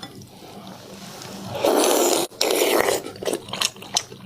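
A person slurping noodles in two long, loud draws, followed by short wet chewing clicks.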